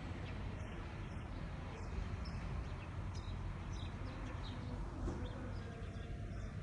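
Outdoor ambience: a steady low rumble with faint, scattered small-bird chirps.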